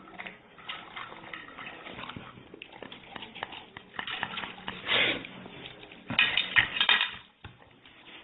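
A dog making sounds, loudest about five seconds in and again from about six to seven seconds in, with small clicks and knocks throughout.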